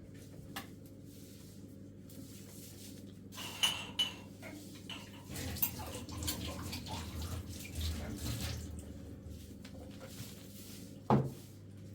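Hand washing-up: water splashing and dishes or pots clattering, with a sharp knock just before the end.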